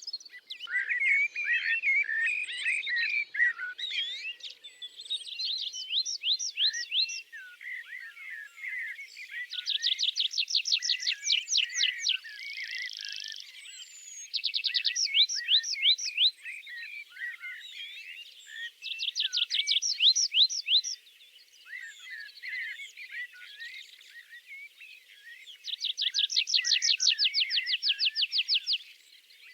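Forest songbirds singing: one bird repeats a fast, even trill of rapid notes five times, each lasting about two to three seconds, while other birds chirp in between.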